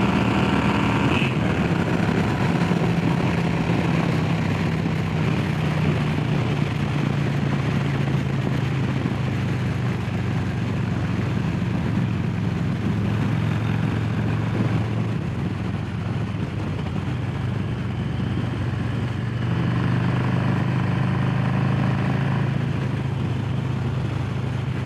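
Harley-Davidson Low Rider S's Milwaukee-Eight V-twin running under way at a steady cruise, mixed with wind and road noise. The engine eases off around the middle and picks up again a few seconds before the end.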